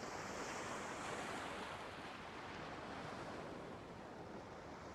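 Faint, steady rushing of sea surf and wind, swelling slightly about a second in and easing off slowly.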